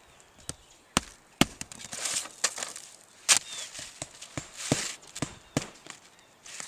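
Roofing shingles being nailed down: irregular sharp nail strikes, several loud ones a second or so apart, with scraping and rustling of asphalt shingles being handled between them.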